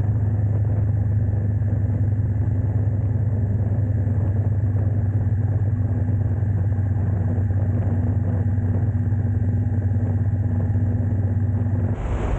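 A motor vehicle's engine running steadily with a low, even hum, which stops near the end.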